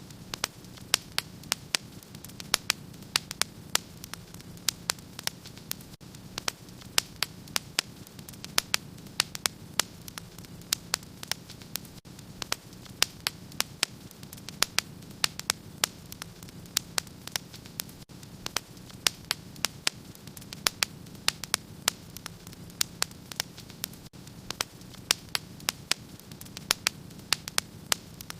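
Wood fire crackling in a fireplace: sharp pops and snaps, several a second and irregular, over a steady low hum.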